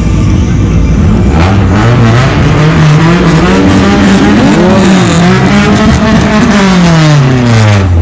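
Engine revved up over about two seconds, held high for several seconds, then let back down toward idle near the end.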